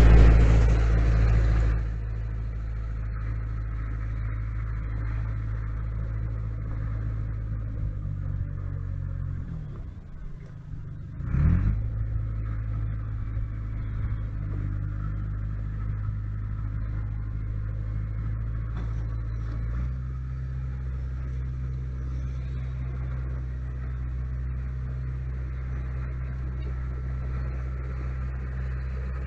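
Dump truck's diesel engine running steadily. Its pitch sinks and then rises again in a short surge about eleven seconds in, and its tone shifts slightly near twenty seconds in.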